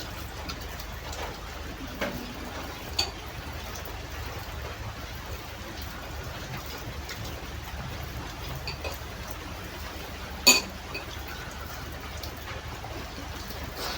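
Eating sounds over a steady hiss of rain: a few light clicks, and one sharp clink of a utensil on a dish about ten seconds in.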